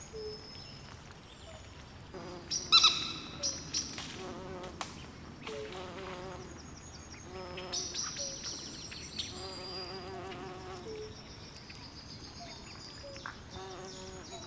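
Swamp night chorus: frogs calling in short pulsed trills, over and over, with high chirping calls throughout and a louder call about three seconds in.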